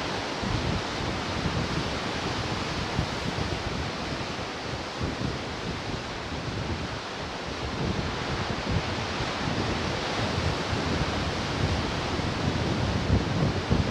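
Ocean surf washing onto the shore in a continuous rush, easing a little in the middle and building again near the end, with wind rumbling on the microphone.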